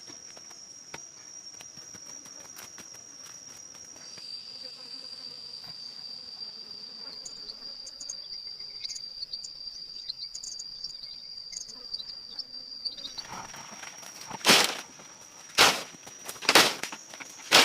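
An insect trills steadily on one high tone, which drops a little in pitch about four seconds in and stops about two-thirds of the way through. Near the end come four loud sharp strikes, about one a second, typical of chopping wood.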